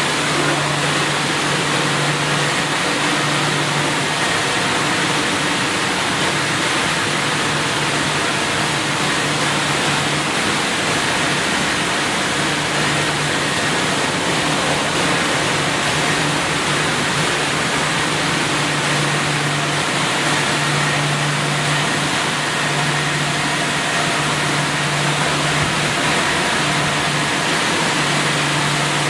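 Automatic car wash machine running: a steady hiss of spraying water, with a low motor or pump hum that cuts in and out every few seconds.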